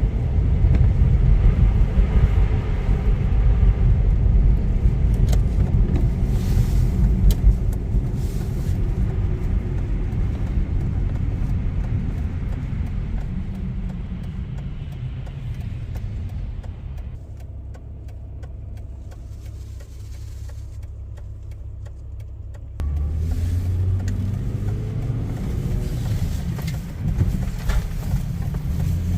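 A car's engine and road noise: a steady low rumble that eases off to a quieter stretch, then picks up sharply again about three-quarters of the way through.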